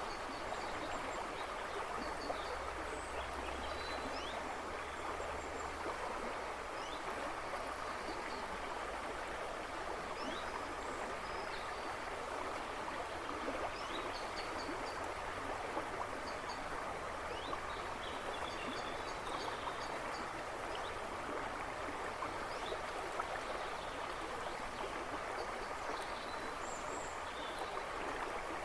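A river rushing and babbling steadily over stones, with birds chirping and trilling faintly in the background.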